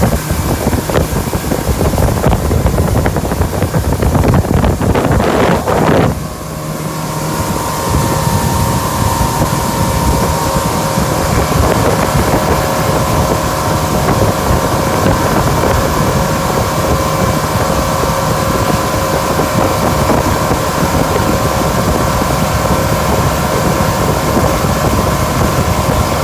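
Strong wind buffeting the microphone for about six seconds, then a steady droning hum from a motor or engine, with wind noise still underneath.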